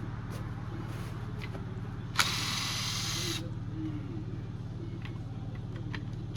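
Milwaukee cordless impact wrench spinning a pre-loosened lug nut off a truck wheel: a sharp click about two seconds in, then about a second of high motor whine. A second burst starts at the very end, over a steady low hum.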